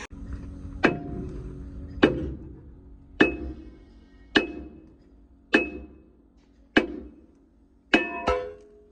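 Hammer striking metal in a slow, even rhythm, about one blow every second and a quarter, each blow ringing briefly; two quick blows near the end.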